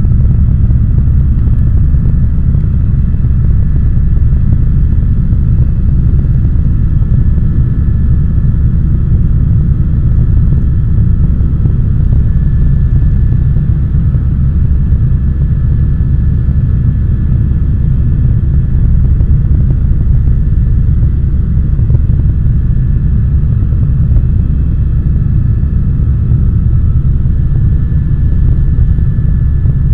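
Helicopter in steady cruising flight heard from inside the cabin: a loud, unbroken low rotor and engine rumble with a faint steady high whine above it.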